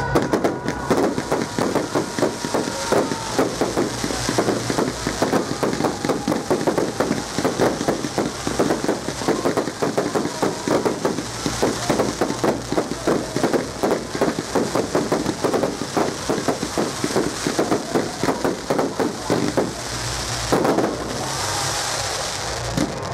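Fireworks display going off in a dense barrage: rapid, near-continuous bangs and crackling, giving way to a steadier hiss about twenty seconds in.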